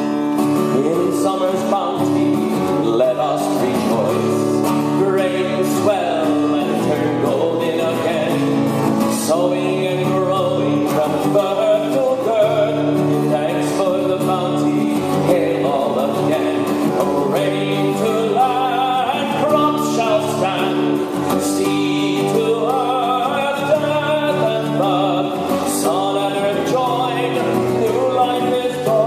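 Folk song sung with strummed acoustic guitar accompaniment, the voice carrying a continuous melody over steady chords.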